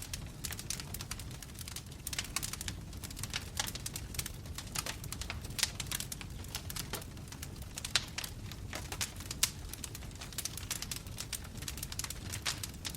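Wood fire crackling: burning logs give off a dense run of irregular sharp pops and snaps over a steady low rumble of flame.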